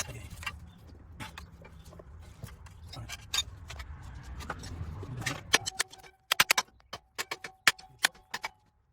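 Hand tools clinking and clicking on metal as the clutch pressure plate bolts are worked loose. In the second half there are a dozen or so sharp, irregular metallic clicks with a faint ring, over a low steady hum.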